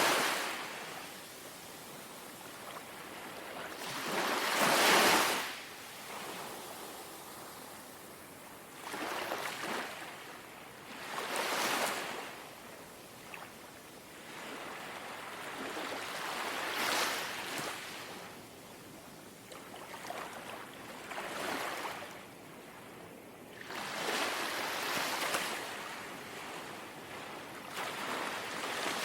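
Small, gentle sea waves lapping and washing onto the shore. Each wave is a swell of rushing hiss, coming about every three to six seconds over a low steady wash; the strongest comes about five seconds in.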